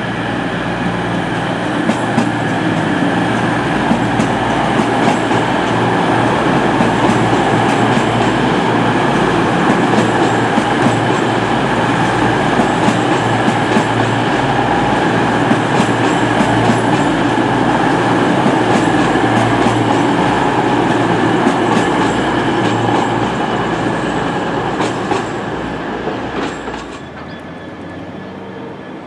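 East Midlands Trains Class 222 Meridian diesel multiple unit passing, its engines running and its wheels clicking over the pointwork. The noise drops sharply near the end as the last car clears.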